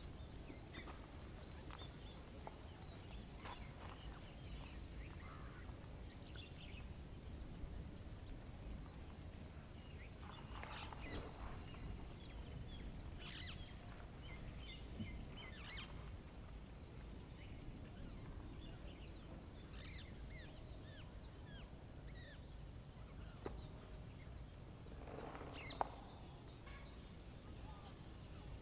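Outdoor ambience: many small birds chirping and calling here and there over a steady low rumble, with a few louder calls around ten seconds in, twenty seconds in and near the end.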